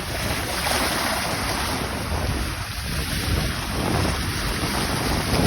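Sea waves washing in, with wind buffeting the microphone as a steady rumbling rush.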